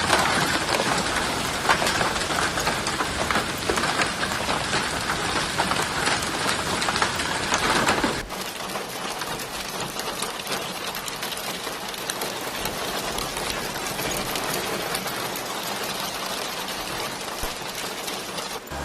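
Heavy rain falling, a dense hiss of many small drop impacts. About eight seconds in it cuts suddenly to a second, quieter stretch of rain.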